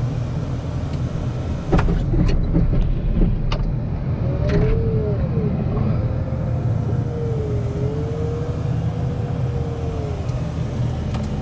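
Wheel loader's diesel engine running steadily under load, heard from inside the cab. A few sharp knocks and clunks come about two seconds in, and a wavering whine rises and falls through the middle of the clip.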